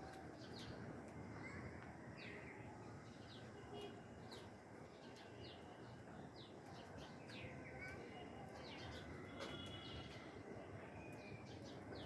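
A flock of cockatiels in an aviary making many short, faint chirps and calls, some sliding down in pitch, over a steady low background noise.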